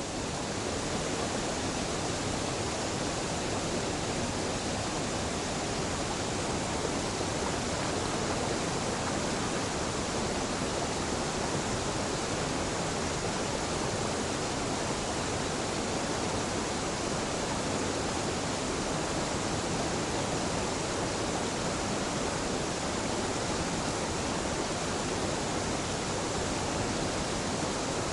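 Waterfall on a mountain river: water rushing steadily, an even, unchanging noise.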